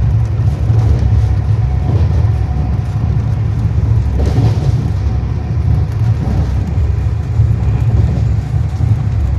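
A moving train heard from on board: a loud, steady low rumble that holds without a break.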